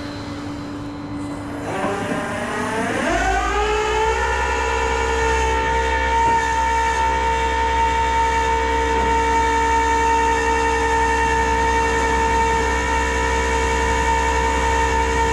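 Tow truck's hydraulic winch system running: a whine that rises in pitch over a couple of seconds, then holds a steady pitch with a low hum beneath, as the cable pulls the vehicle on.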